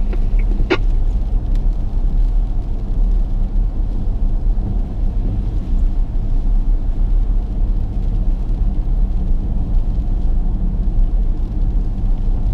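Car driving, a steady low road and engine rumble, with one short sharp click about a second in.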